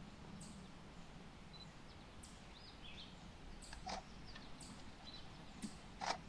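Quiet outdoor evening ambience with faint, high, short bird chirps scattered through, and two sharper clicks, about four and six seconds in.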